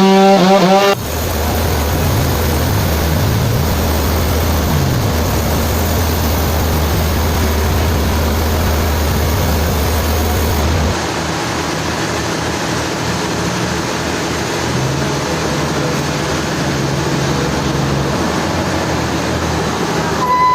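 Heavy sawmill machinery running with a steady low engine hum, which changes abruptly about 11 seconds in.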